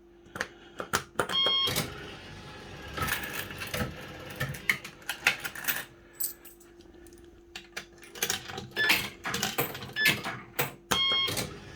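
Firecracker fruit machine running: rapid clicks and clunks from its reel deck, a steady hum while the reels spin, and short electronic beeps about a second and a half in and again near the end. The reel deck has a fault that makes it lose reel position, which the owner puts down to a sticking solenoid.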